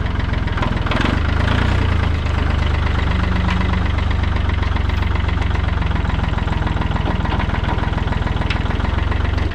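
Tractor engine running steadily at a low, even speed, with a heavy rumble.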